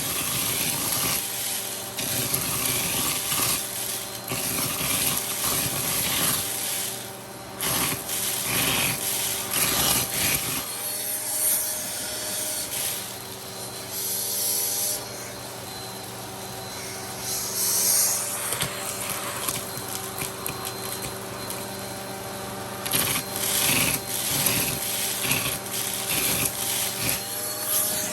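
Vacuum cleaner running with a steady motor hum as a hose attachment tool is rubbed and scraped over surfaces, the suction noise rising and falling irregularly.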